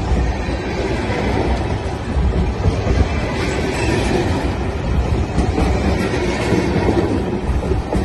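Freight train tank cars rolling past close by, steel wheels on the rails making a loud, steady noise.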